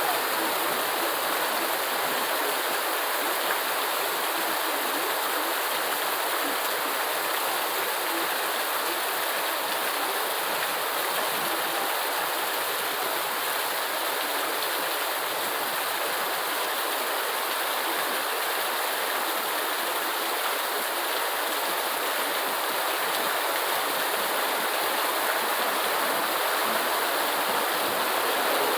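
Steady rain: an even, unbroken hiss of falling water with little low end.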